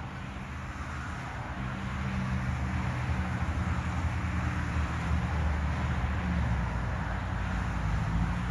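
Steady low rumble of a running engine, a little louder after the first couple of seconds.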